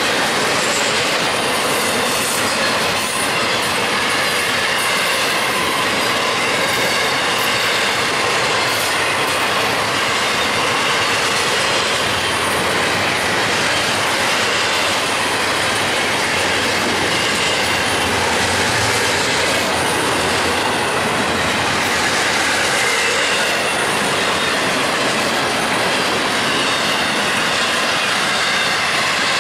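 Freight train cars rolling steadily past close by: steel wheels running on the rails, with a faint wheel squeal over the rumble.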